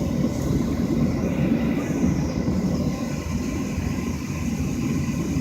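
Steady low rumble of cabin noise inside a Boeing 737 airliner standing on the ground, with a faint steady whine above it.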